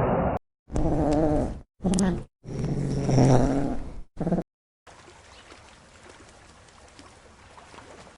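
Four short animal calls, each cut off abruptly by a brief silence, the longest about a second and a half, followed from about five seconds in by faint steady outdoor background noise.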